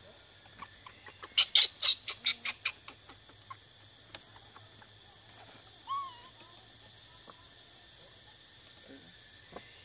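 Outdoor forest sounds: a quick run of about seven sharp calls about a second in, fading as it goes, then a single short whistled bird note near the middle, over a steady high-pitched drone.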